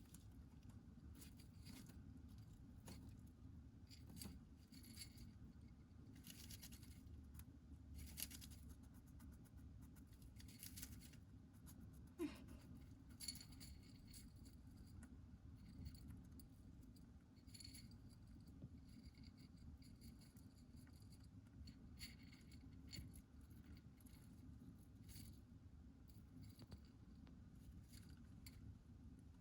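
Near silence: low room hum with faint scattered clicks and short scrapes.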